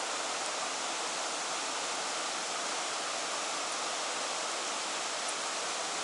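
Steady rush of flowing stream water, an even unbroken hiss with no change in level.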